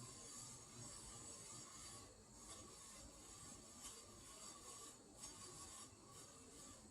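Freshly oiled ceiling fan running, very faint: a soft steady hum and airy hiss that swells and dips every second or two, with a light buzz still there.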